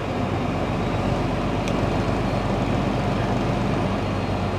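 Semi-truck's diesel engine and road noise in a steady drone while cruising, with one light click about halfway through.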